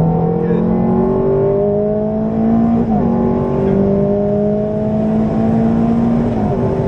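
Ferrari F430's 4.3-litre V8 accelerating hard on track, heard inside the cabin. The engine note climbs steadily, then drops with an upshift about three seconds in and climbs again to a second upshift near the end.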